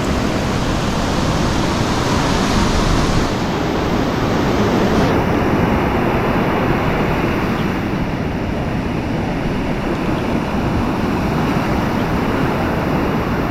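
Ocean surf on a beach: waves breaking and washing in a steady, loud rush, with wind on the microphone.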